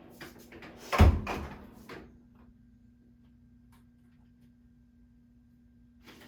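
Craft supplies being handled on a desk: a cluster of clicks and rattles with one loud knock about a second in, likely markers being picked through and set down. Then a faint steady hum.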